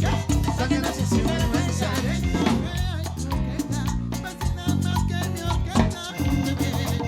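Live salsa band playing an instrumental passage, with bass, drums and percussion keeping a steady beat under melodic lines.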